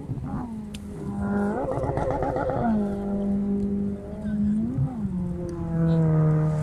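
A voice holding long, drawn-out notes that glide from one pitch to the next, with a wavering stretch about two seconds in and a drop to a lower note near the end.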